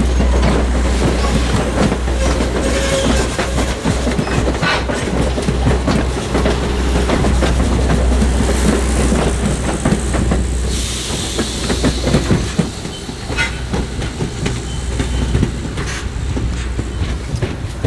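A train's wheels rolling along the track, with a steady low rumble and repeated clicking over the rail joints. A brief burst of hiss comes about eleven seconds in.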